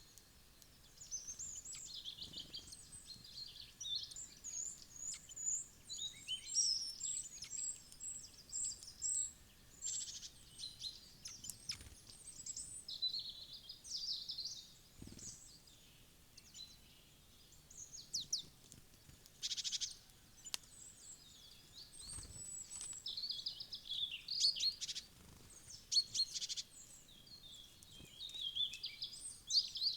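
Wild forest birds chirping and calling almost continuously, many quick overlapping high chirps and trills, with brief lulls. A few soft low thumps sound among them.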